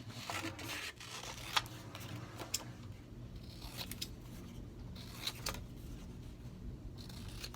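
Scissors snipping paper: a few quiet, scattered cuts over a faint steady hum.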